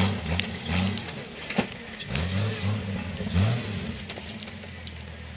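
Off-road 4x4's engine revving in repeated short bursts, each rising in pitch, as the vehicle crawls under load over a mound of dirt and rocks. A few sharp knocks come in between.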